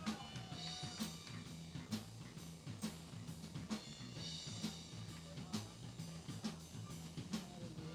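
Live band playing a steady groove: a drum kit keeps the beat with a hit about once a second, over a bass guitar line.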